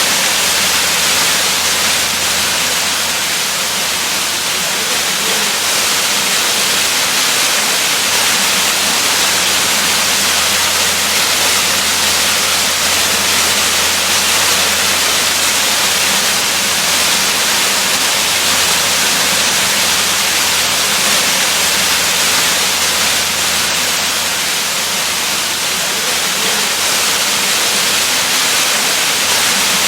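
Waterfall: water falling in a steady, unbroken rush, mostly a bright hiss with little low rumble.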